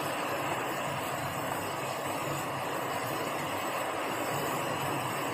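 Okra-and-egg stir-fry sizzling steadily in a pan on a gas stove as it is stirred and dried out, a continuous even hiss.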